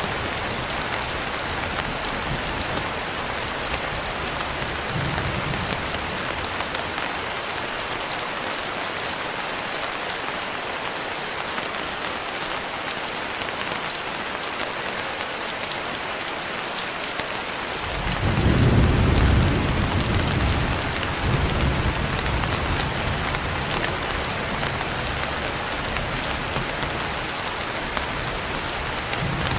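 Steady rain pouring, with a roll of thunder rumbling in a little past halfway, loudest for a couple of seconds and then dying away.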